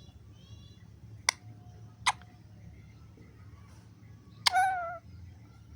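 Green parrot vocalising: two sharp short clicks or squeaks, then a louder wavering pitched call about half a second long near the end.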